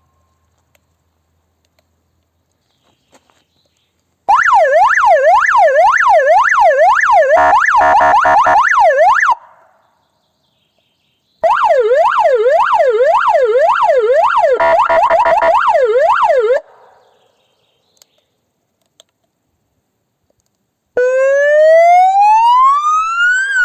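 Vehicle siren-loudspeaker unit (SGU) sounding a fast yelp, the pitch sweeping rapidly up and down about twice a second, in two bursts of about five seconds each with a pause between. Each burst turns choppy and pulsing near its end. Near the end a slow wail starts, rising steadily in pitch and then beginning to fall.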